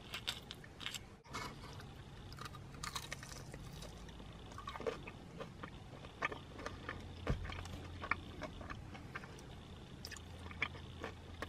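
A person biting into and chewing a crispy fried chicken tender, with faint, irregular crunches and soft mouth sounds.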